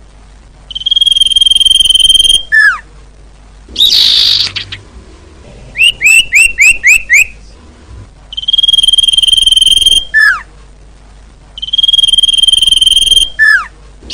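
Bird lure calls. A long, steady, clear whistled note held about a second and a half ends in a quick falling note, and this phrase comes three times. Between the first and second phrases come a harsh burst and then a rapid run of six short up-and-down chirps.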